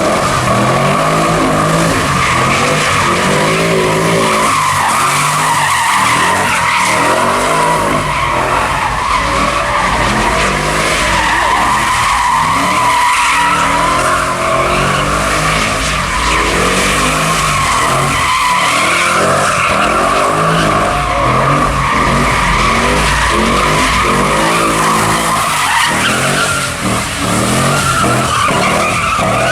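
Car doing donuts: the engine revs hard, rising and falling, while the rear tyres screech continuously as they spin on the pavement.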